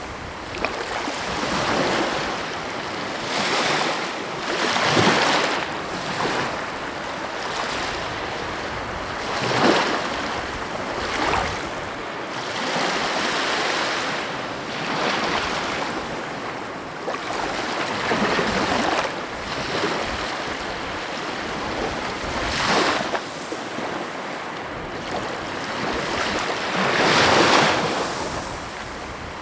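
Sea waves washing onto a shore, a steady hiss of surf that swells and falls every few seconds, with a larger wave breaking about ten seconds in and another near the end.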